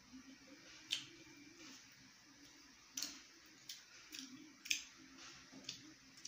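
Quiet eating sounds: scattered wet clicks and smacks of mouths chewing food eaten by hand, about seven in all at irregular intervals, over a faint low hum.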